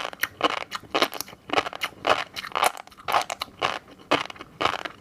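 Close-miked chewing of a mouthful of fish roe, in short crackly bursts about two a second.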